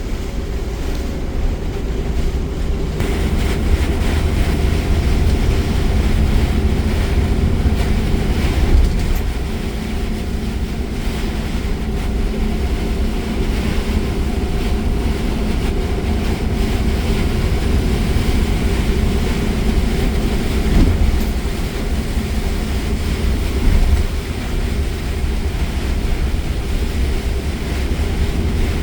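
Steady low rumble of a car driving at speed, heard from inside the cabin, with an even hiss of rain and tyres on a wet road. A couple of brief knocks come in the second half.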